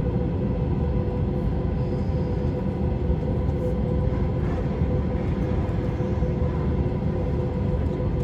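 Steady cabin noise of a jet airliner in flight: an even low rumble with a constant hum running through it.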